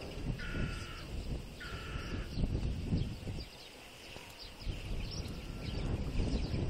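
A bird calls twice, two short calls about a second apart, over wind buffeting the microphone, with faint chirping from small birds.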